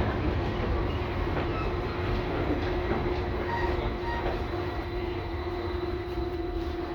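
LVS-2009 tram running, with a rumble and a steady whine that holds through, the whole sound slowly getting quieter toward the end.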